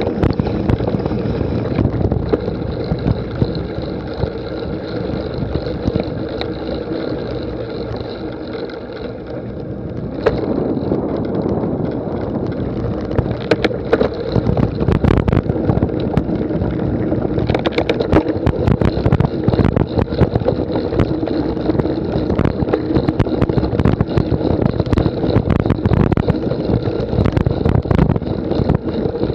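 A cyclocross bike being ridden over rough ground, with wind rushing over the microphone and the bike's frame and chain rattling and knocking over bumps. The rattles come thicker and louder from about ten seconds in.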